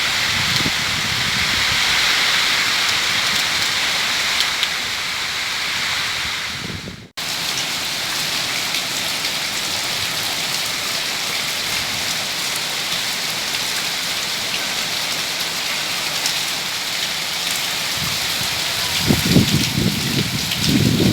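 Heavy rain pouring steadily, a dense even hiss, with a brief sharp dropout about seven seconds in and some low rumbling near the end.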